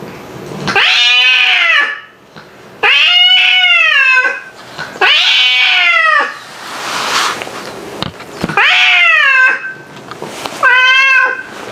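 Domestic cats yowling at each other in a fight standoff: five long, drawn-out calls of about a second each, each rising then falling in pitch.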